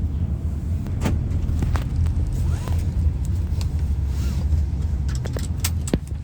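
Steady low rumble of a vehicle running, with a few scattered clicks and knocks.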